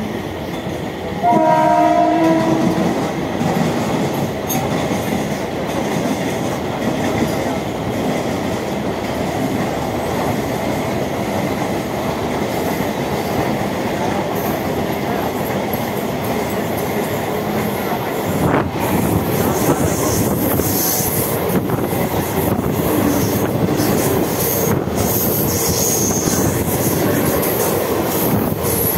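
Mumbai suburban electric local train running, heard from its open doorway: steady rumble with wheels clattering over the rails. A train horn sounds for about two seconds near the start, and high wheel squeal comes in during the second half.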